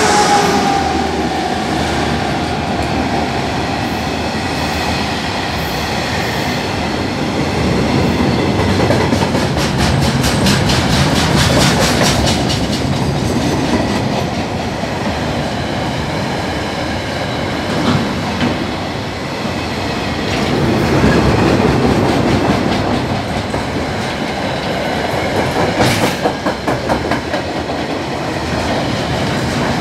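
A freight train of container wagons rolls past at speed: a loud, steady rumble of steel wheels on rail, with stretches of rapid clickety-clack over the rail joints. The tone of the departing DL-class diesel locomotives falls in pitch in the first second.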